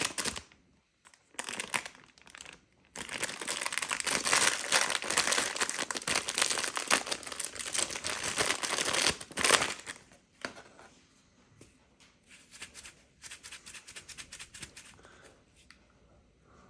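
The crinkly packaging wrapper of a replacement coffee-machine water filter being crumpled and torn open by hand, in bursts with short pauses, for the first ten seconds or so. After that come quieter, scattered light clicks and taps as the filter is handled.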